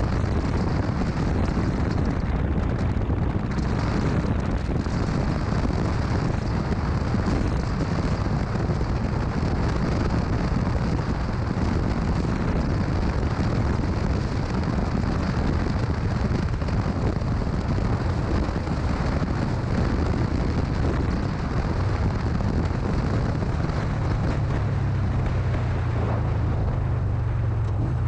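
Wind rushing over the microphone of a moving motorcycle, with the engine running underneath. Near the end the wind hiss eases and the engine's low drone comes through more steadily.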